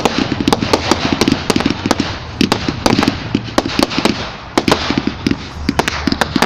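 Fireworks going off in a dense, loud barrage: many sharp bangs, several a second, over continuous crackling.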